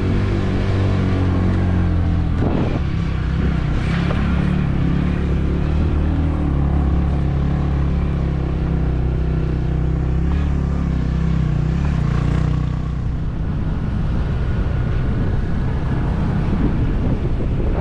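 Small motorbike engine running steadily while riding, its pitch shifting about two and a half seconds in, with wind rushing over the microphone.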